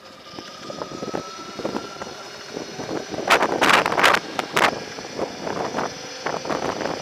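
Wind buffeting the microphone on a moving Throne SRPNT electric moto, in several loud gusts about halfway through, over a faint steady high whine from the bike's electric drivetrain.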